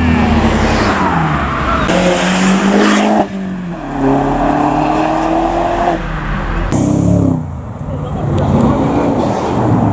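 Modified cars' engines revving and accelerating away as they leave, the engine note climbing and then dropping sharply about three seconds in and again near seven seconds as gears change or one car gives way to the next.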